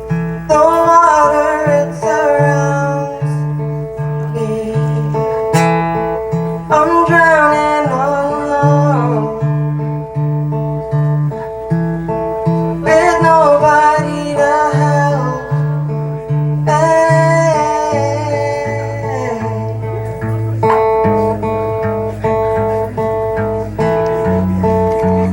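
Acoustic guitar played in a steady, repeating picked pattern, with a voice singing phrases over it that come and go every few seconds.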